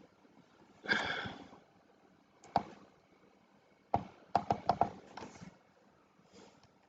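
Computer keyboard keystrokes: a short noisy burst about a second in, then single clicks and a quick run of about five clicks.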